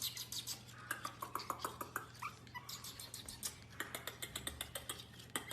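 A dog, with rapid clicking several times a second and a few faint high squeaks about a second in, over a low steady hum.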